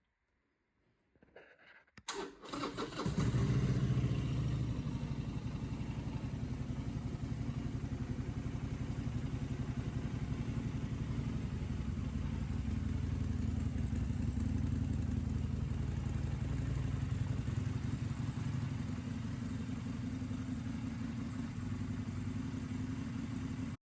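Harley-Davidson XL1200T Sportster Superlow's air-cooled 1200 cc V-twin being started: a few faint clicks, the starter cranks about two seconds in, and the engine catches, briefly louder, then settles into a steady idle.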